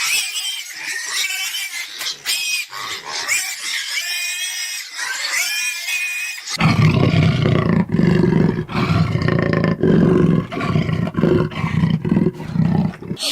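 Animal calls: high, wavering calls for about the first six seconds, then a loud, deep, pulsing roar from a large animal.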